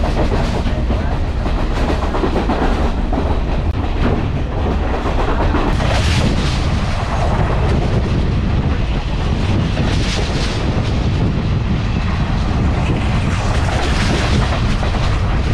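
Passenger train carriage running along the track: a loud, steady rumble of steel wheels on the rails.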